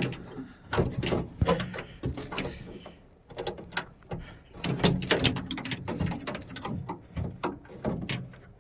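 Irregular clicks, knocks and rattles of hands and a tool working on the linkage rods and clips inside a minivan's door, freeing the exterior door handle.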